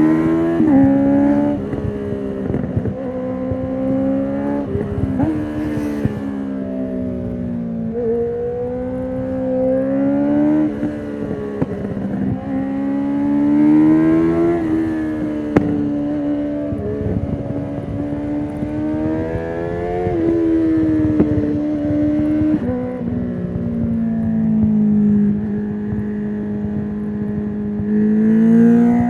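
2019 Honda CB650R inline-four through an Akrapovic full titanium exhaust with the dB killer removed, pulling up through the revs and dropping sharply at each gear change, several times, with a spell at steady cruising speed. Wind rush from riding runs underneath.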